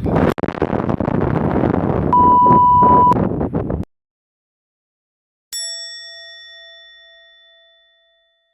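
Wind rushing on the microphone with a one-second steady beep in the middle, cut off abruptly. After a short silence, a single bell-like ding rings out and fades away over about two and a half seconds.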